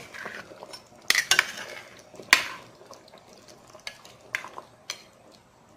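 A spoon stirring a pot of simmering chicken afritada, with sharp knocks and clinks of the spoon against the pot. The loudest knocks come in the first two and a half seconds, then lighter taps follow. The stirring is to keep the sauce from sticking and burning on the bottom.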